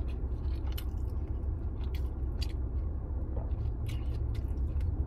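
Close-up chewing of a mouthful of steak fajita, with wet lip smacks and small mouth clicks scattered throughout.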